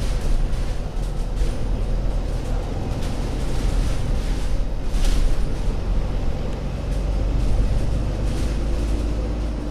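Diesel engine of an ADL Enviro500 MMC Euro 6 double-decker bus running with a steady low drone, with a short burst of higher noise about five seconds in.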